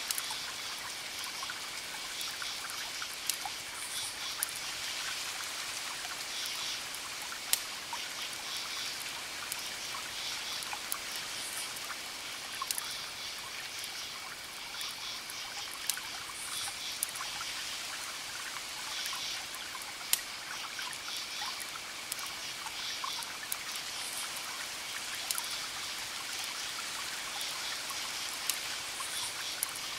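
Wood fire crackling, a steady hiss with scattered sharp pops, over a background layer of repeated chirping.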